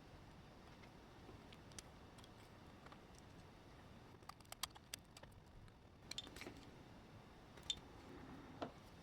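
Faint, scattered small clicks and taps over quiet room tone, in a cluster about halfway through and a few sharper single clicks near the end, as of small parts or tools being handled on a workbench.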